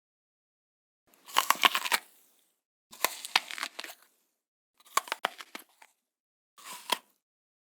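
Crunching bites into a crisp food: four short crackly crunches, about a second and a half apart, with silence between them.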